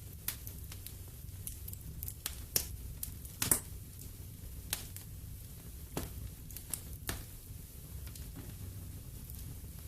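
Wood fire in a fireplace crackling, with irregular sharp pops and snaps, the loudest about two and a half and three and a half seconds in, over a steady low rumble.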